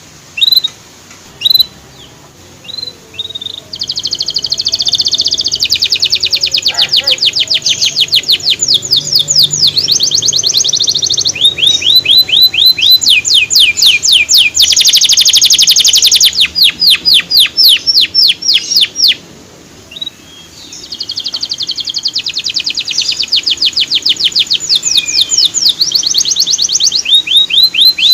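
Canary singing: a few single chirps, then long, fast trills of repeated downward-sweeping high notes, with a short break about twenty seconds in before the trilling resumes.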